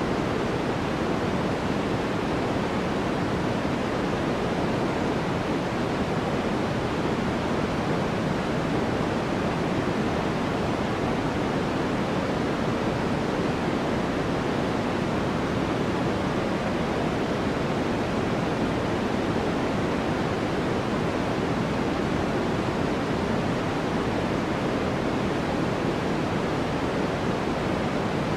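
Steady white-noise track: an even, unbroken rushing hiss, fuller in the low and middle range than in the treble, with no changes.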